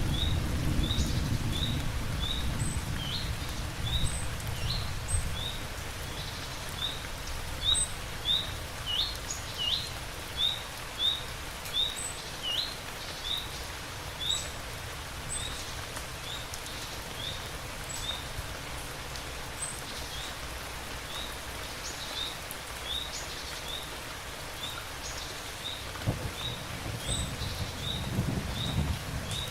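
Steady rain with a bird repeating short high chirps about once or twice a second. A low rumble of thunder dies away over the first few seconds, and another low rumble builds near the end.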